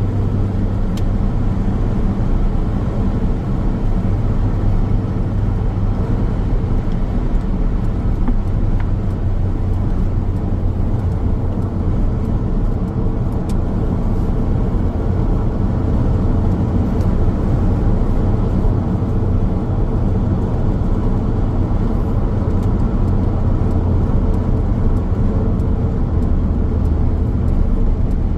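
Car driving at steady speed: constant road and tyre noise with a low engine drone, heavy in the low end and unchanging throughout.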